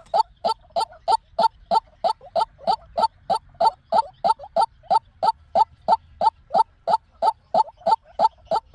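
White-breasted waterhen calling: a steady, rapid series of short, harsh notes, about three and a half a second, the repeated call used as a lure for trapping waterhens.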